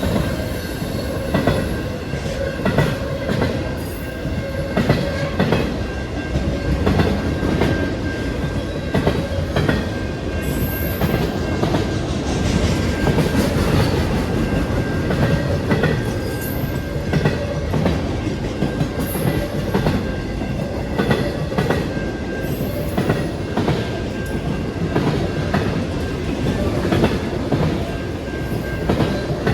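A train rolling steadily past, its railcar wheels clicking over the rail joints in a continuous rhythm.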